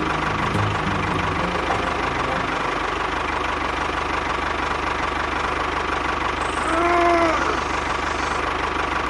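An engine running steadily at idle with a fast, even knock. About seven seconds in, a short pitched sound rises and falls over it.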